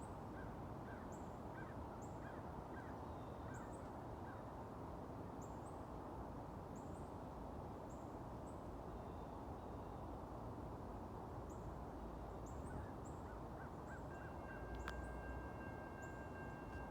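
Quiet steady outdoor background hiss with a small bird giving short, high chirps over and over. About fourteen seconds in, a faint steady chord of high tones starts and holds.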